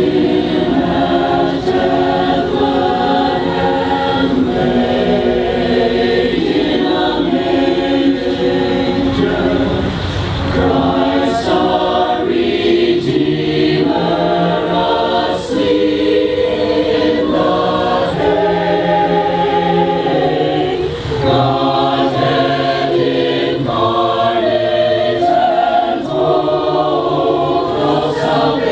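Mixed choir singing a Christmas piece, with sustained, held chords in several voice parts.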